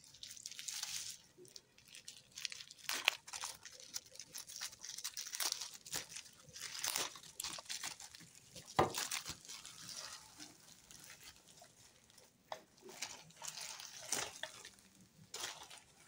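Gift wrapping rustling and crinkling as a package is handled and unwrapped, in irregular spells with a few short sharp clicks, the sharpest about nine seconds in.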